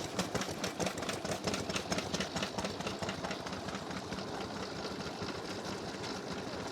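Vintage single-cylinder stationary engine running with a fast, even clatter of several strokes a second, which fades to a softer steady running sound about halfway through.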